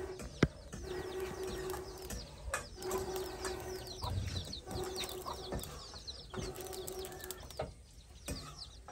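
Small birds chirping busily, with a low note repeating about every second and a half and a single sharp click about half a second in.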